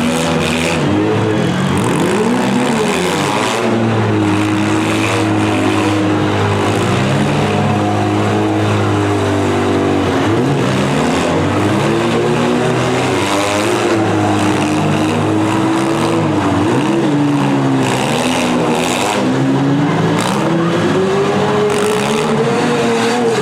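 Several demolition derby cars' engines revving hard, their pitches rising and falling and overlapping.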